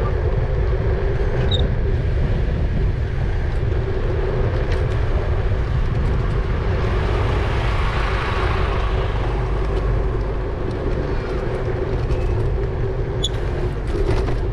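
Wind rumbling on the microphone of a moving e-bike, with tyre noise and a steady low hum. A broad hiss swells and fades in the middle, and there are a few faint high ticks.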